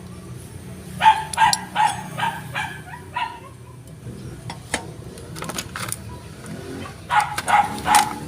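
A dog barking in quick repeated yaps, a run of about six, then a second run near the end, with a few sharp clicks or taps in the pause between.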